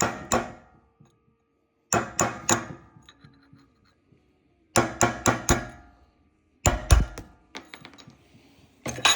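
Hammer tapping a small punch in short groups of two to four sharp metallic strikes with pauses between, driving out the pressed-in keeper that holds a 4-jaw lathe chuck's adjusting screw.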